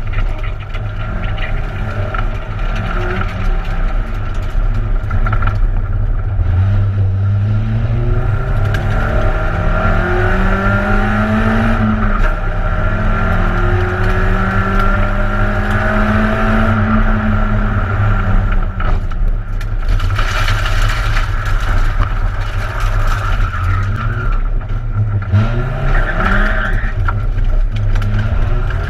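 Peugeot 106 1.6 rally car heard from inside the cabin at stage pace: the four-cylinder engine revving hard and climbing through the gears, its pitch dropping at each gear change.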